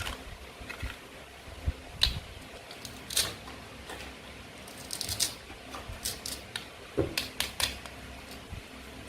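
Toy play-food pieces being handled and cut: scattered sharp clicks, taps and light knocks, with a quick run of crisp ticks about five seconds in.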